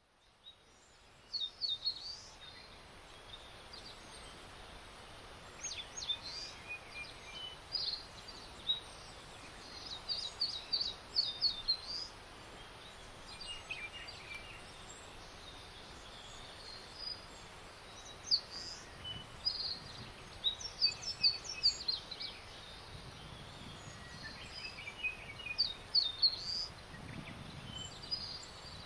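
Songbirds singing in a spring forest: short phrases of high, quick chirps every few seconds, with a few lower notes between, over a steady background hiss.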